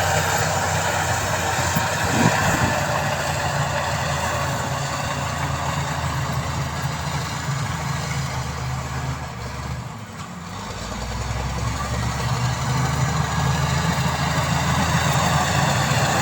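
Diesel engine of heavy earthmoving machinery running steadily. About ten seconds in it drops away briefly, then comes back up with a deeper note.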